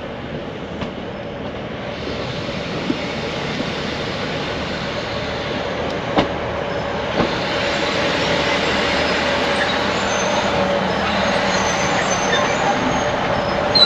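Diesel passenger train on the West Highland Line running in along the station platform, growing louder as it nears. A few sharp clicks come from the wheels on the rails, and a steady squeal sets in about halfway through.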